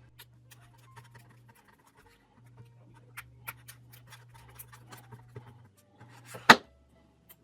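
Small screwdriver working a tiny screw out of a plastic remote controller shell: light scraping and scattered faint ticks, then one sharp click about six and a half seconds in.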